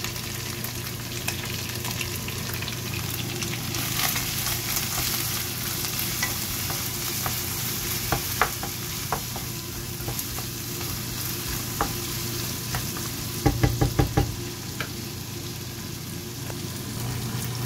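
Chicken pieces and minced garlic sizzling in hot oil in a nonstick frying pan, stirred with a wooden spatula, with scattered clicks over a low steady hum. A quick run of about five knocks about three-quarters of the way through is the loudest sound.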